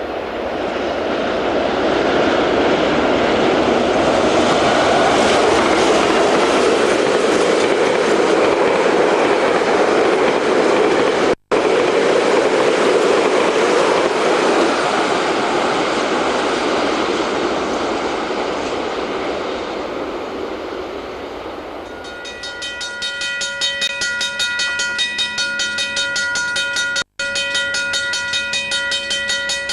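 A train going by on the rails, its noise swelling to a peak and then fading away. Near the end a steady pitched tone with a fast even pulse takes over. The sound cuts out briefly twice.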